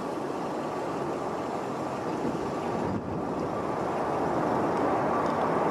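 Boeing 777 jet engines, a steady roar with a faint constant whine, growing gradually louder during an aborted landing (go-around).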